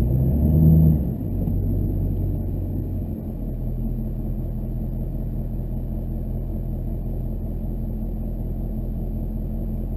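Steady low rumble of a Chevrolet Duramax LB7 6.6-litre V8 turbodiesel pickup driving, heard from inside the cab, with a brief louder swell about half a second in.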